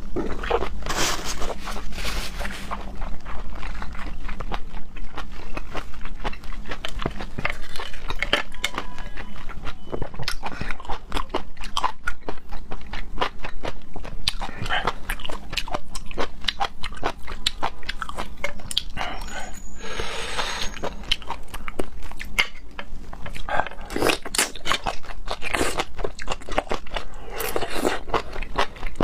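Close-miked eating of raw seafood: steady wet chewing and smacking clicks, broken by a few longer wet sucking sounds.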